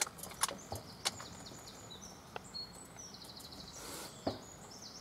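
A wild bird singing: rapid series of high, quick down-slurred notes, repeated phrase after phrase from about a second in until near the end. A few short, sharp clicks are scattered through.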